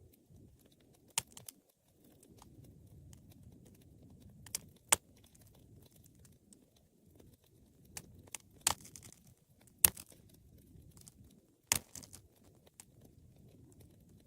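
Wood fire crackling over a low, soft rumble of flames, with scattered small ticks and about five sharp pops, the loudest about five and ten seconds in.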